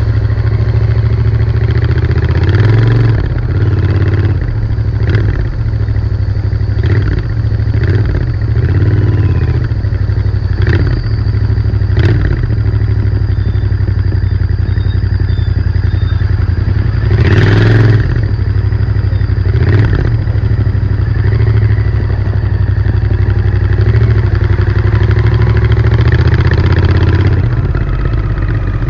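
Royal Enfield Interceptor 650's parallel-twin engine running through its stock exhaust under way, its pitch rising and falling as the throttle opens and closes. Sharp knocks and clatters come now and then, the biggest about 17 seconds in.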